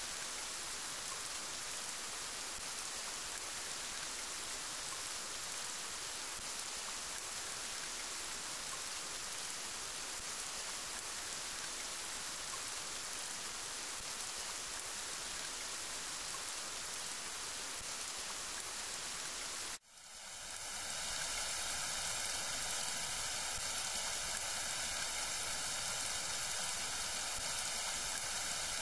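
Steady rain falling, an even hiss of drops. About two-thirds of the way through it cuts out for an instant, then comes back slightly louder with a different character, like a splice to another rain recording.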